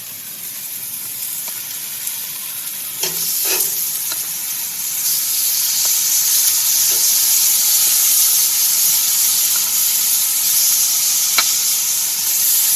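Shrimp and ribeye steaks sizzling in hot oil on cast iron, the sizzle growing louder over the first few seconds as the shrimp go in, then holding steady, with a few light clicks about three seconds in.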